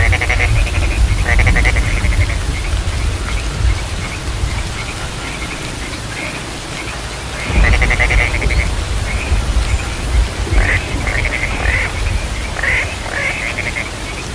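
Frogs calling in a chorus: short trains of rapid pulsed croaks, repeated and overlapping, sparser in the middle and thicker again from about seven and a half seconds in. A low rumble runs underneath and swells at the same point.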